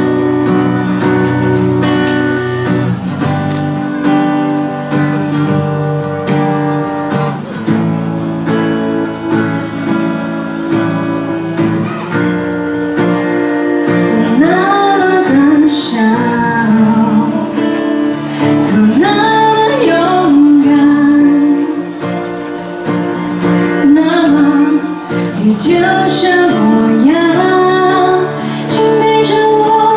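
Guitar strumming chords in a live song, joined by a woman singing from about halfway through.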